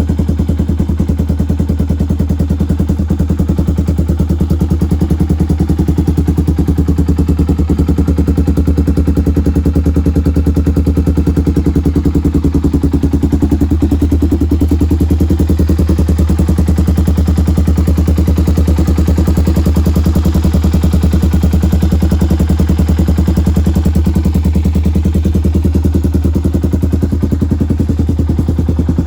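Honda ATC 350X three-wheeler's single-cylinder four-stroke engine idling steadily, its new-old-stock engine running smoothly at an even pitch.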